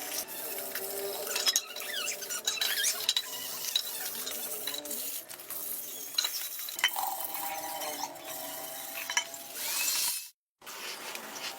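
Metal parts and tools being handled, with scraping, squeaking and small clinks, and a brief drop to silence near the end.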